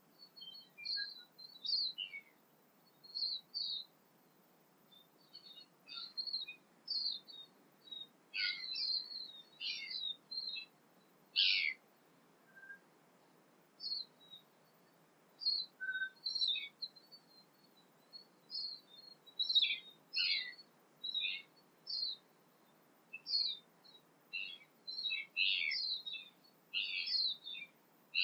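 Tūī and other songbirds singing: a run of short high chirps, whistles and quick phrases, about one every second, with brief gaps between them.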